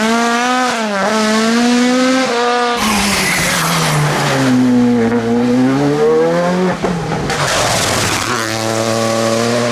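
Rally car engine at high revs on a special stage, its pitch climbing and dropping through gear changes and lifts off the throttle, with two short bursts of tyre noise in between. Near the end the engine holds a steady pitch.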